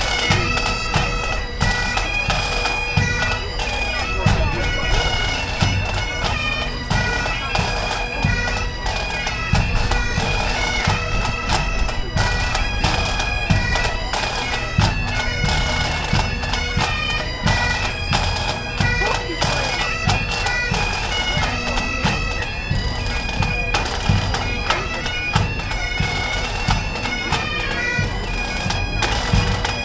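Bagpipes playing a tune: melody notes stepping over a steady drone, with low thumps beating underneath.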